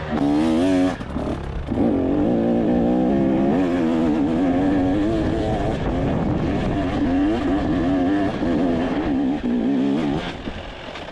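Dirt bike engine running hard under varying throttle, its pitch wavering up and down. It dips briefly about a second in and drops away about ten seconds in.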